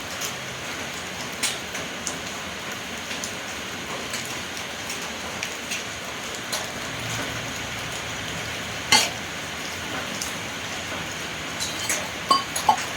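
Scattered small clicks and metallic clinks, as of metal parts and tools being handled, over a steady hiss; the sharpest click comes about nine seconds in, with a quick cluster of clinks near the end.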